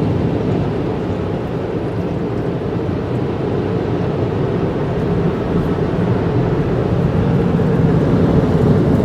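Automated car wash tunnel machinery running: a steady, loud rushing rumble that slowly grows louder.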